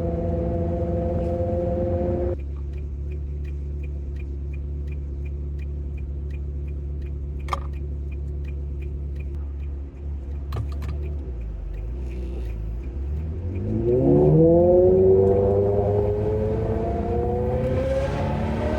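Ferrari 360 Modena's V8 running with its modified exhaust. The steady engine note drops to a low idle about two seconds in, with a fast light ticking over it. Near the end the engine revs and pulls away, its pitch rising and the sound at its loudest.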